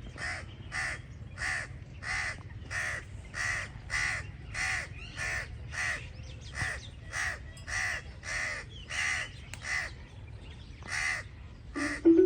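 A crow cawing over and over in a steady rhythm, about one harsh caw every two-thirds of a second, pausing briefly before one more caw. Right at the end comes a short, louder, lower-pitched sound.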